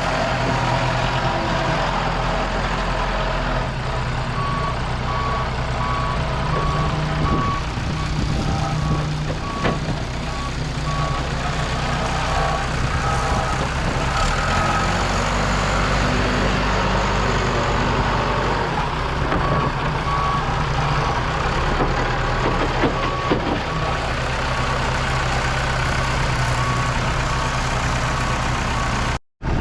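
Diesel earthmoving machine running steadily while smoothing fill dirt. Its backup alarm beeps about one and a half times a second in stretches as it reverses.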